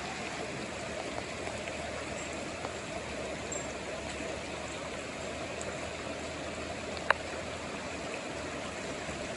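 Flash-flooded creek water rushing steadily, the creek out of its banks and running over the road. A single short click about seven seconds in.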